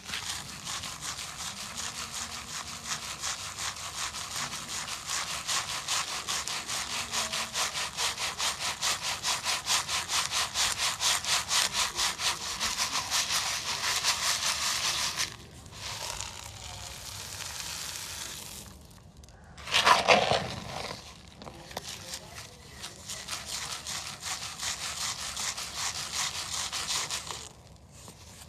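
Gritty dry cement powder being shaken through a sieve, a rasping hiss in a fast, even back-and-forth rhythm. The rhythm stops for a few seconds, a brief louder sound comes about two-thirds of the way through, and then the rhythmic sifting starts again.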